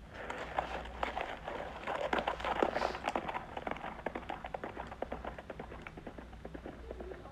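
Horses' hooves clattering in quick, irregular hoofbeats, loudest in the middle and thinning out toward the end.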